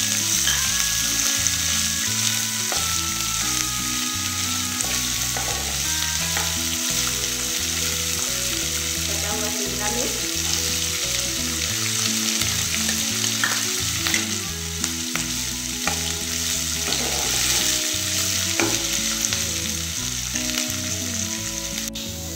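Chopped cauliflower, capsicum and peanuts sizzling steadily as they fry in oil in a nonstick kadhai, stirred now and then with a metal spatula. Light background music plays a melody underneath.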